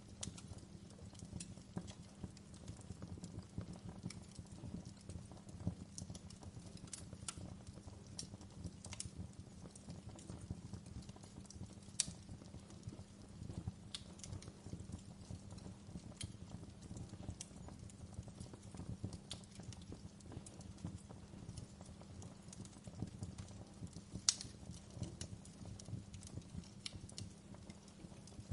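Wood fire crackling in a fireplace: scattered sharp pops and snaps over a steady low rumble of the flames, with two louder pops, one near the middle and one later on.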